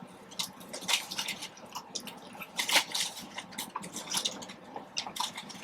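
Close-up wet chewing and lip-smacking while eating a soft chicken taco, a run of short irregular mouth clicks.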